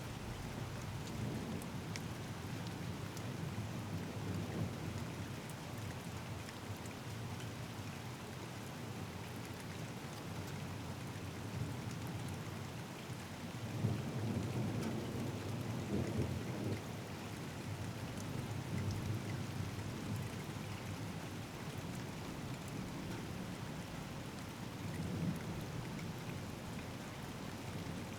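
Steady rain falling, with low rolls of thunder rumbling underneath: one swells about halfway through and another comes near the end.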